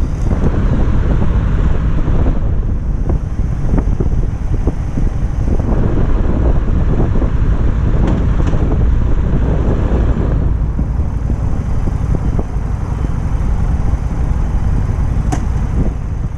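Harley-Davidson XG750 motorcycle riding at speed, its liquid-cooled V-twin engine running under heavy wind rush buffeting the microphone. The noise stays loud and steady throughout.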